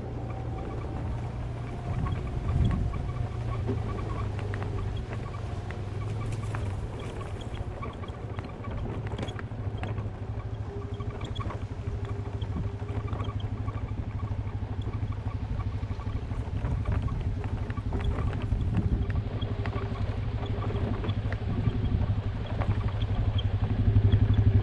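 A small vehicle riding over a rough, sandy trail: a steady low motor hum with constant fine rattling and crackling from the tyres and frame over bumps, roots and small rocks, growing a little louder toward the end.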